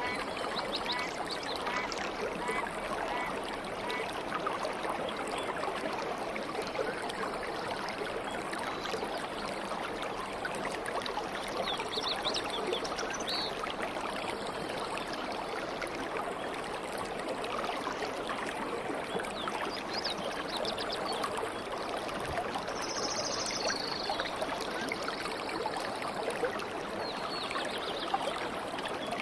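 A stream of water running steadily, with a few brief bird calls over it, the clearest about two-thirds of the way through.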